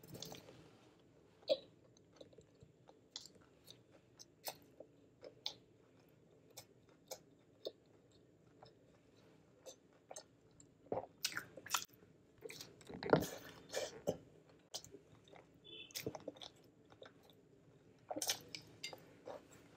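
Close-up chewing and biting of a crispy fried chicken burger, with many short crisp crunches and mouth clicks. A louder run of crunching comes about two-thirds of the way through.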